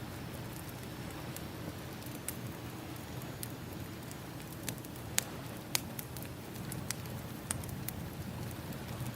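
Crackling wood fire, its sharp pops scattered irregularly, over a steady rushing wash of ocean waves: a campfire-and-surf ambience track.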